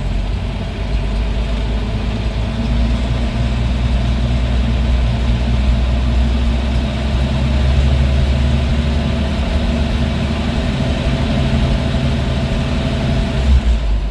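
REO US6 truck's Hercules JXD inline-six engine running on its freshly rebuilt Carter carburetor. It is brought up from idle about two seconds in, held at higher revs, and settles back down near the end.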